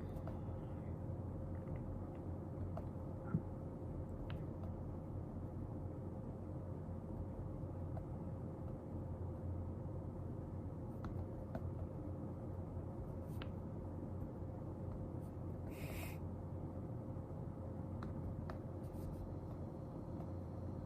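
Quiet study-desk ambience: a steady low room hum with a faint steady tone, scattered light clicks and taps, and one brief rustle about three-quarters of the way through.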